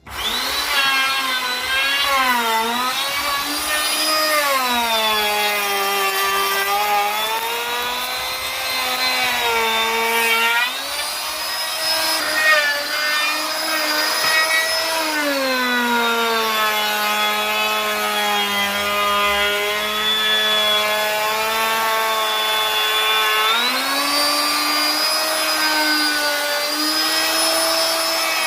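Electric wood router running and cutting wood. Its motor pitch sags as the bit bites into the wood and climbs back as the load eases, several times over.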